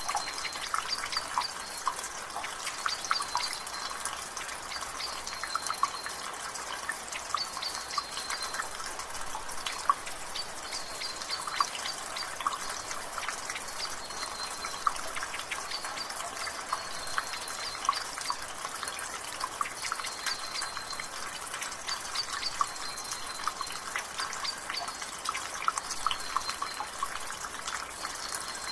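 Water dripping and trickling from a rain gutter, many irregular drips over a steady hiss of light rain, with short high bird chirps repeating every second or two in the background.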